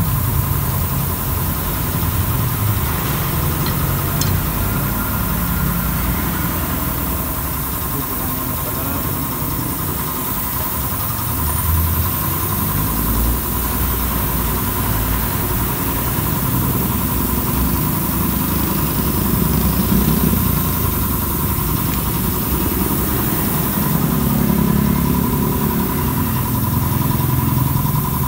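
A motor running steadily at idle: a low, even rumble with a constant high whine over it.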